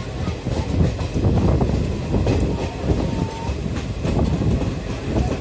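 Passenger train running along the track, heard from an open coach doorway: steady wheel-on-rail noise with scattered clacks as the wheels pass over rail joints.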